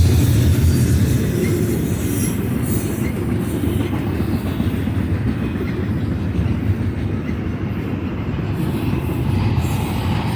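BNSF double-stack container freight train rolling past, a steady rumble of wheels on rail.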